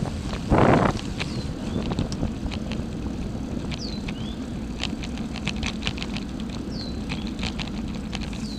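Outdoor ambience on a walk, with a low steady rumble and wind on the microphone. A brief loud rush of wind noise comes about half a second in. Scattered light clicks and a few short falling chirps sound over the top.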